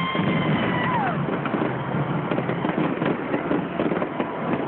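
Fireworks bursting in quick succession, a dense run of crackles and pops over a steady wash of crowd noise. A held high tone slides down in pitch and stops about a second in.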